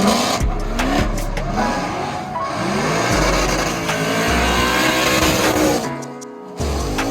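Drift car engine revving up again and again, with tire squeal. The sound drops away briefly about six seconds in, then picks up again.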